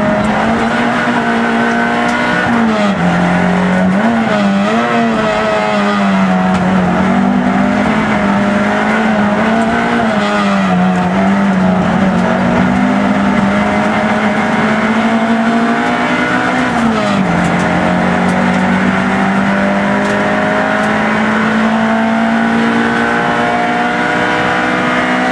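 Peugeot 106 race car's four-cylinder engine heard from inside the cabin, running hard at high revs. The pitch holds high, wavers and dips repeatedly through the middle, drops about seventeen seconds in, then holds steady to the end.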